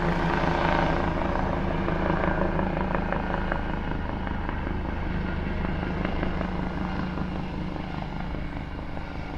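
Helicopter engine and rotors running steadily, slowly fading as it moves away.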